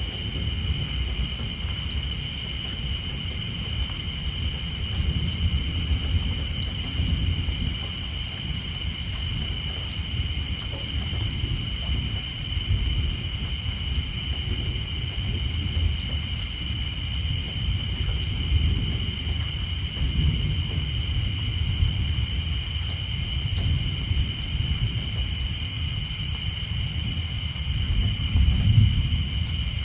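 Distant thunder rumbling low and continuously, swelling louder near the end, over a steady high-pitched chorus of tree frogs and light rain pattering on a tin roof.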